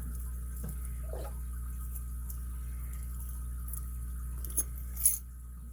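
Small hard clicks and taps from handling a padlock and its lock parts, with two sharper clicks near the end, over a steady low hum.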